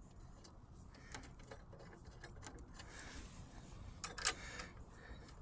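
Faint light clicks and taps of metal parts being handled as a bicycle disc brake caliper is set into place, with two sharper clicks about four seconds in.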